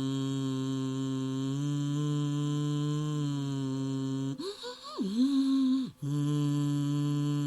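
A voice humming a steady low note as sound-healing toning. A little over four seconds in it breaks into a brief swooping slide in pitch, then settles back onto the held note.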